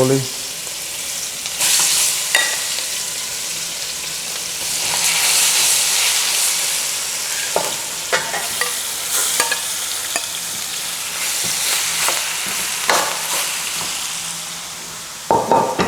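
Seasoned chicken back sizzling steadily in hot curry oil in a pot as the pieces are added, with scattered clicks and knocks through the sizzle.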